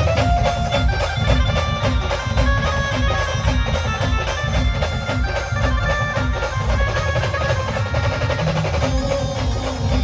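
A live band playing an instrumental passage of traditional Indian folk music: a melody of long held notes over busy, fast drumming.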